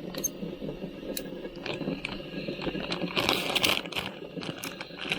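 Plastic packaging crinkling and rustling, with scattered small clicks and a denser crackle about three seconds in, as a package of meat ribs is torn open and handled.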